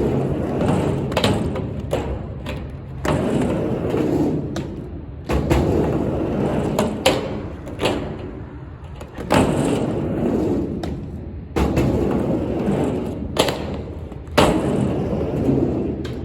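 Skateboard rolling back and forth on a mini ramp: stretches of wheel rumble a few seconds long, broken by sharp thuds and clacks as the board hits the ramp.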